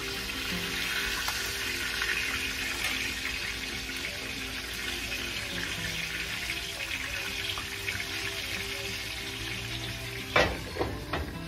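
Chicken frying in a cast iron skillet, a steady sizzle, with a few sharp knocks near the end.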